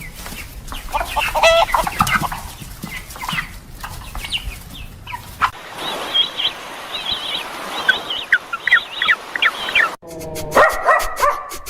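Chickens clucking, with short, rapid calls from several birds; the recording cuts to a second flock about five and a half seconds in. Near the end a different animal starts up with short, repeated calls.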